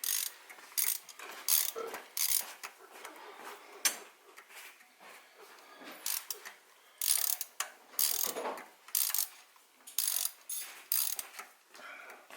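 Hand socket ratchet clicking in short, repeated bursts as it turns a spark plug.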